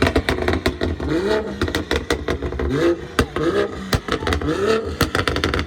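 A car engine revved over and over in quick blips, its pitch rising and falling about once a second. Many sharp pops and cracks come from the exhaust between the revs.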